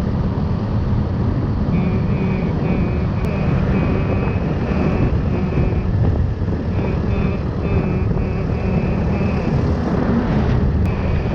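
Steady low engine rumble running without a break, with short warbling high chirps recurring over it.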